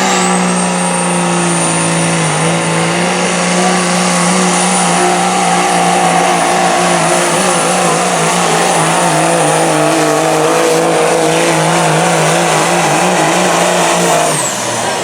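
Pro stock semi's diesel engine at full throttle pulling the sled, with a high turbocharger whistle held over it. The engine note sags slowly under load; near the end the throttle comes off and the whistle falls away.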